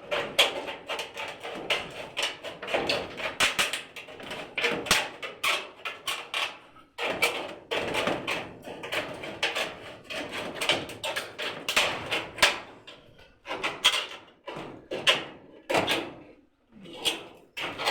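Hand carpentry on wooden house framing: a long run of irregular knocks and scrapes of tools on wood, with brief pauses about seven seconds in and near the end.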